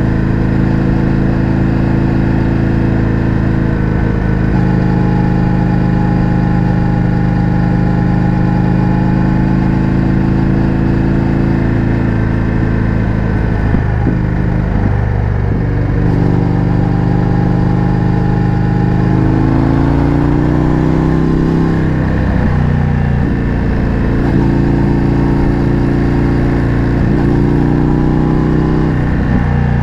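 Indian FTR 1200's V-twin engine running through an Akrapovič exhaust while riding, with a steady note that dips and climbs again several times as the engine speed changes.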